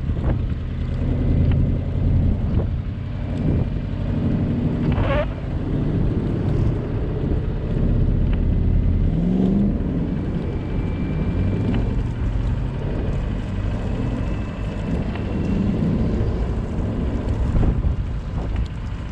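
A car driving on a snowy road: a steady low rumble of engine and tyre noise. A brief rising squeak comes about five seconds in.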